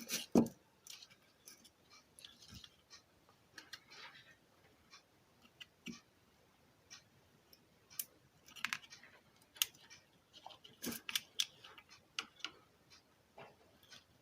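Irregular light clicks and taps of small parts and wires being handled on a repair bench, the loudest right at the start and another cluster of clicks about eight to eleven seconds in.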